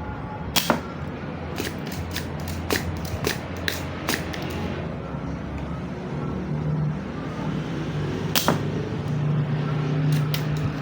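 Sharp clicks and taps of small hand tools working on an inverter circuit board, with a quick run of them in the first half and a few more near the end, over a low steady hum.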